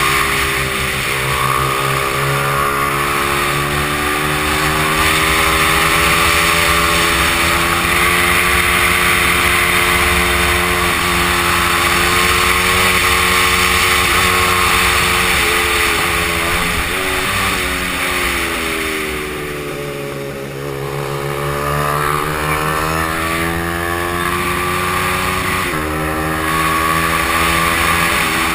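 Honda XR100's single-cylinder four-stroke engine at race pace, revving up with short drops in pitch at each gear shift. About twenty seconds in it falls away as the bike slows, then climbs again.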